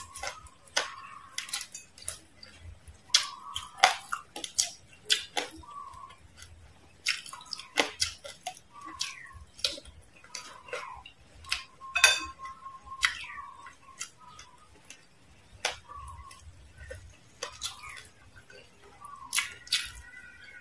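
Crispy deep-fried frog being crunched and chewed close to the microphone, with the fried coating crackling as pieces are pulled apart by hand. The crunches come as irregular sharp crackles, several a second at times, with short wet mouth sounds in between.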